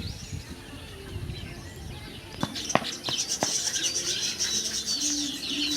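Many small birds chirping and twittering, becoming a dense, continuous chorus from about halfway through, with a few sharp clicks near the middle.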